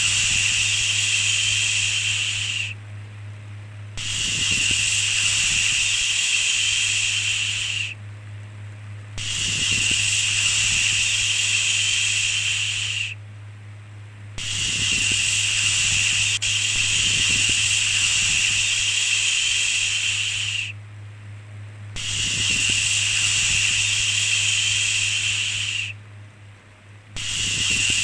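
Long drawn-out 'shhh' shushing sounds, one after another, each lasting a few seconds with about a second's pause between them, over a steady low hum.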